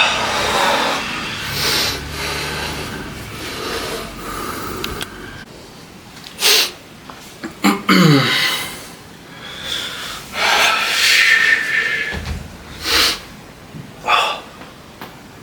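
A person breathing hard during weight training: a series of sharp, forceful exhales and puffs through the nose and mouth, coming every second or two, with a short falling grunt about halfway through.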